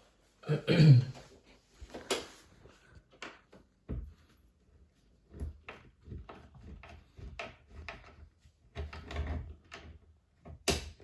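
Handling noises from unscrewing the dishwasher door's fixing screw with a Torx bit: a loud scraping thump about half a second in, then a series of short clicks and knocks of the tool and metal fittings.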